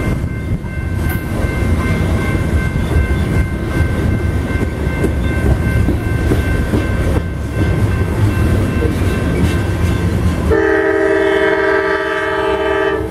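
Coal train hopper cars rolling past a grade crossing, a loud steady rumble of wheels on rail with a faint steady high tone above it. About ten and a half seconds in, a locomotive horn sounds a held multi-note chord from the approaching passenger train, the California Zephyr.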